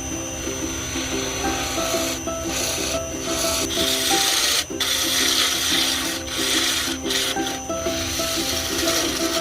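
A tool working a piece of wood spinning on a lathe, a hissing scrape that breaks off and resumes several times as the tool is lifted and put back on the wood. Background music plays underneath.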